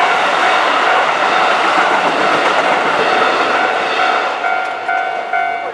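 Keikyu 2000 series electric train passing, a loud steady rush of wheel and running noise. About a second before the end, a ringing tone sounds three times in short pulses.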